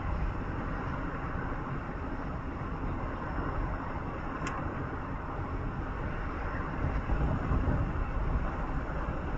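Steady rumble of a moving road vehicle, with a brief faint tick about four and a half seconds in.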